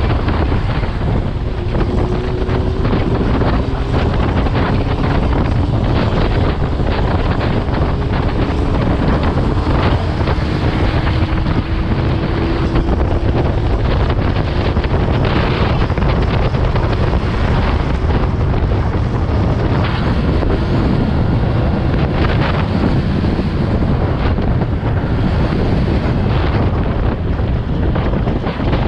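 Strong wind buffeting the microphone: a loud, steady rumble that goes on without a break.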